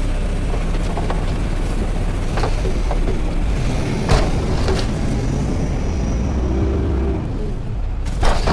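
Front-load garbage truck running with a steady low rumble, broken by a few sharp clanks, the loudest about four seconds in.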